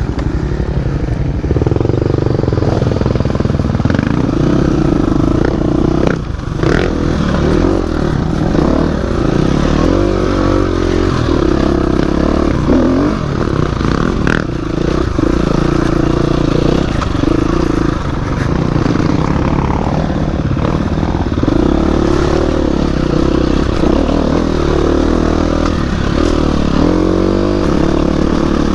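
Dirt bike engine running under load on a trail, its revs rising and falling with the throttle. A few sharp knocks are mixed in, about six seconds in and again near the middle.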